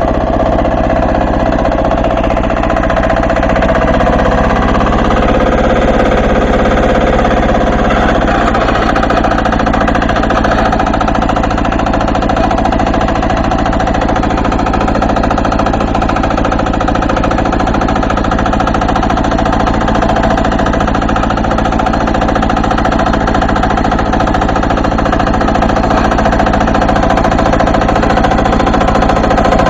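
Diesel walk-behind tractor engine running steadily under load while pulling a plough through the soil.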